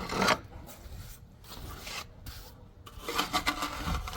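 Rough rasping, scraping strokes on a hard surface, repeated several times with short pauses between them.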